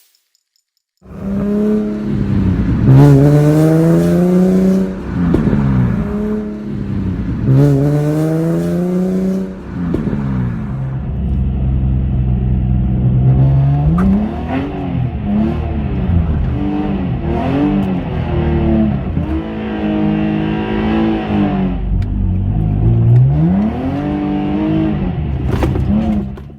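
Infiniti G35 V6 engine pulling hard twice, its pitch climbing and then dropping sharply each time, as on an upshift. After that the revs rise and fall repeatedly with the throttle.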